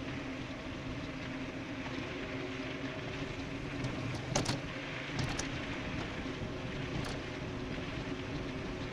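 Ride noise on a fast e-bike descent: a steady hum of tyres and rushing air, with a few sharp clicks between about four and seven seconds in.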